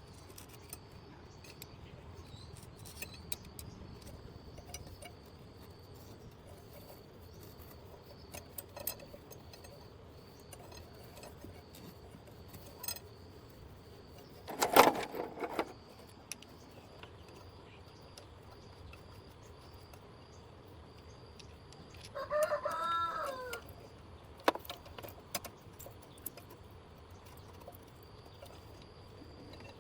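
A rooster crows once, about three-quarters of the way through, with a single loud knock about halfway and scattered light clicks of tools or metal.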